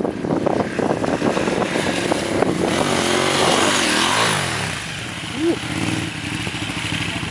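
Dual sport motorcycle engines revving, their pitch rising and falling, with one engine note dropping as another climbs about four seconds in.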